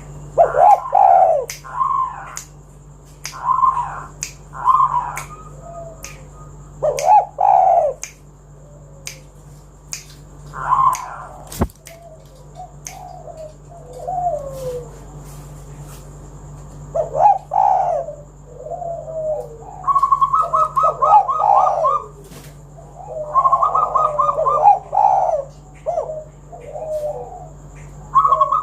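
Spotted doves cooing, a string of short repeated coo phrases. Near the end the phrases come closer together and overlap with fast stuttering runs of notes.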